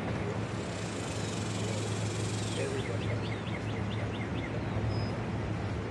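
Outdoor ambience under a steady low hum, with a small bird giving a quick run of about eight short high chirps about three seconds in.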